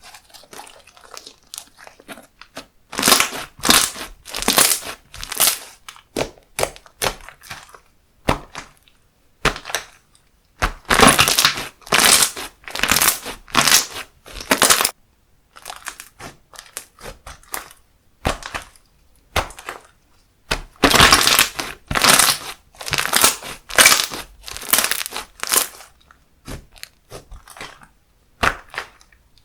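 Slime being squeezed, stretched and pressed by hand close to the microphone, making three long spells of dense popping and clicking with quieter, scattered handling noises between them.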